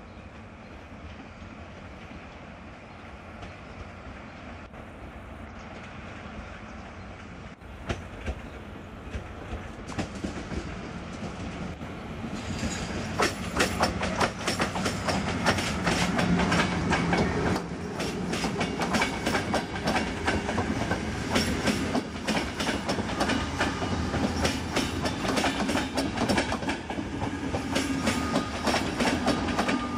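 An ÖBB Taurus electric locomotive hauling a passenger train approaches and passes close by. The rumble grows much louder about twelve seconds in, then the coaches roll past with a rapid, uneven clicking of wheels over the track.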